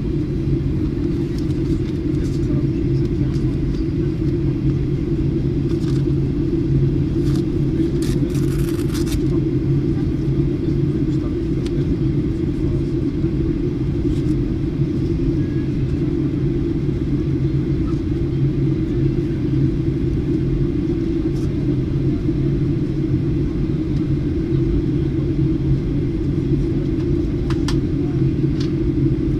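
Steady low rumble of an airliner cabin in flight, the engine and airflow noise heard on descent. A few faint clicks come about eight seconds in.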